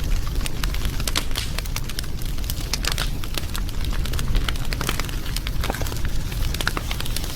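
Wood fire burning and crackling, with frequent irregular sharp pops and snaps over a steady low rumble.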